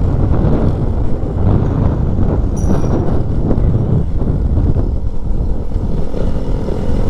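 Keeway motorcycle running at road speed, its engine drone mixed with heavy wind buffeting on the rider's microphone. A brief high squeak about two and a half seconds in.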